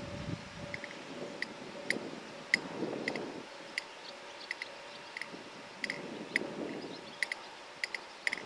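A 115-series electric train pulls away, its low rumble fading within the first second and a faint hum dying out soon after. Scattered short, sharp high clicks follow at irregular intervals, several a second.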